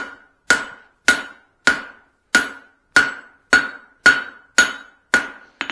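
Blacksmith's hand hammer striking a hot steel cross peen hammer head on an anvil: steady blows about two a second, each with a short ring.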